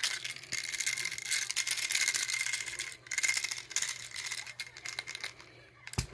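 Fast, dry rattling and scratching from play with an umbrella cockatoo and a toy, in two runs of about three and two seconds with a brief break between them.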